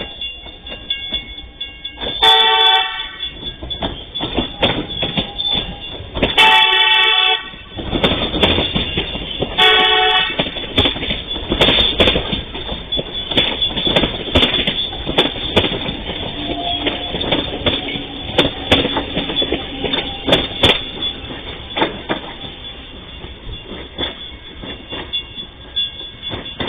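Electric commuter train sounding its horn three times, then running close past with its wheels clattering over the rail joints. The noise eases off near the end.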